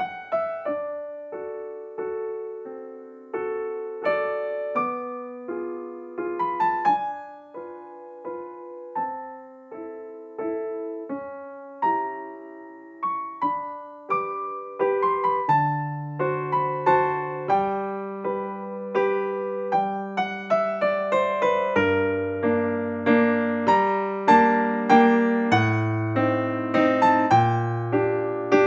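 Background piano music: a gentle melody of struck notes, with lower bass chords joining about halfway through and the playing growing fuller toward the end.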